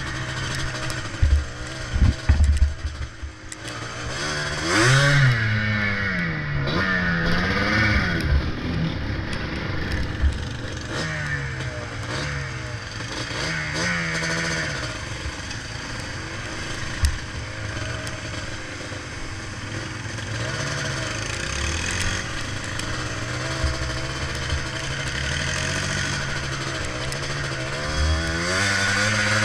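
Yamaha Blaster ATV's single-cylinder two-stroke engine under way, its pitch rising and falling again and again as the throttle is worked. A few heavy knocks come about one to two seconds in.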